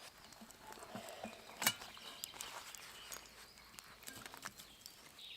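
Camp cooking gear being handled while a stove and pot are set up to boil water: scattered light clicks and knocks, with one sharper click about a second and a half in.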